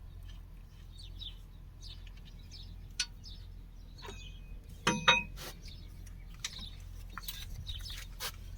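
Birds chirping, with a sharp metallic clink about five seconds in that rings briefly, like a tool striking metal, and a lighter knock shortly before it.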